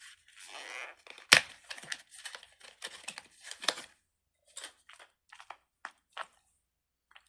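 A plastic fidget toy being handled and worked: a run of irregular clicks and crinkly crackles, with one sharp loud click about a second in, thinning to scattered clicks in the second half.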